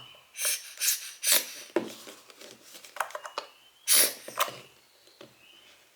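Short rustling and rubbing noises from handling and cleaning a lens element, heard as a handful of separate brief bursts with the loudest about four seconds in.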